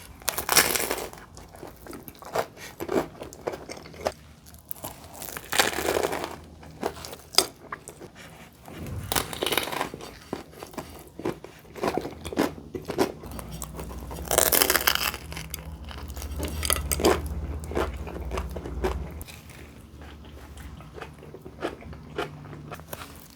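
Close-miked eating of a stuffed burrito: several big bites spaced a few seconds apart, with chewing and small mouth clicks between them.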